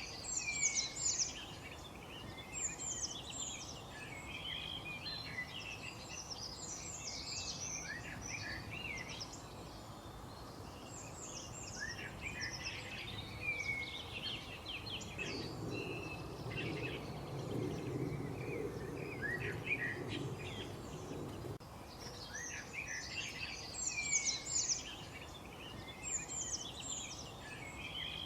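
A chorus of songbirds chirping and trilling over a steady background hiss, several birds overlapping. Midway through, a low rumble rises under the birdsong for several seconds, then stops.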